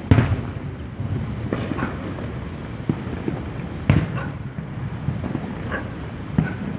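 Aerial fireworks exploding: two loud booms about four seconds apart, with smaller pops in between.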